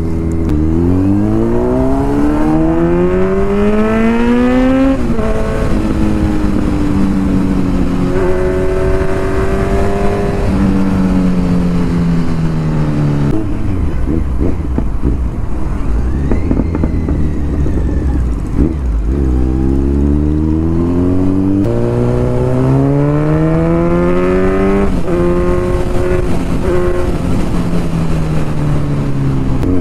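Kawasaki Z900 inline-four through an Akrapovic titanium full-system exhaust, ridden hard twice. Each time the note climbs and drops back at an upshift. Between the runs and near the end the engine slows as the throttle is closed.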